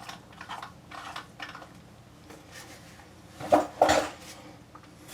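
Light metallic clinks and taps as small tools are handled, with two sharper clinks about three and a half seconds in.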